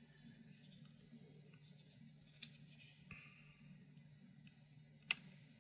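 Small clicks and scrapes of a retaining clip being worked back onto the shaft of a computer power-supply fan, with one sharp click about five seconds in, over a faint low hum.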